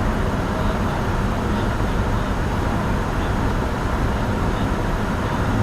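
Steady cockpit noise of a Bombardier Challenger 605 business jet in the climb: an even rush of airflow and engine drone.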